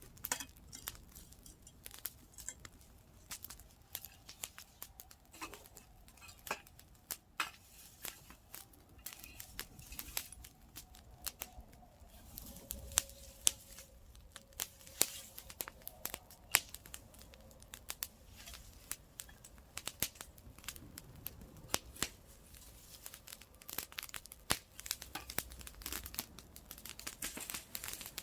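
Wood campfire crackling, with irregular sharp snaps and pops from the burning wood.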